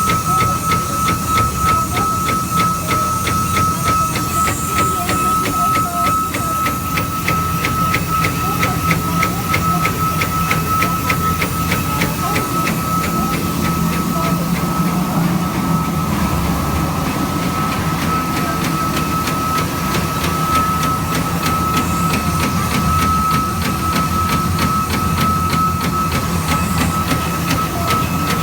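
Giga8888 eight-spindle CNC machine running: a steady high spindle whine over a low machine hum, with fast, even ticking through roughly the first half.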